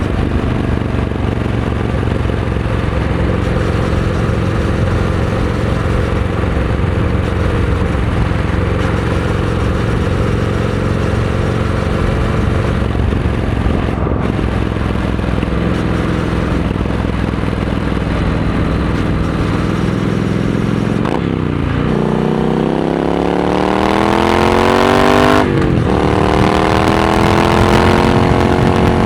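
Triumph Scrambler 900 parallel-twin engine through a Vance & Hines exhaust, running at a steady cruise. After about 21 seconds the revs drop briefly, then climb as the bike accelerates, dip once at an upshift and climb again.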